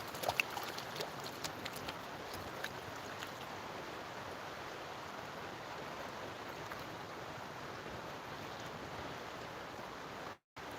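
Steady rush of flowing stream water, with a few faint ticks in the first few seconds. The sound cuts out briefly near the end.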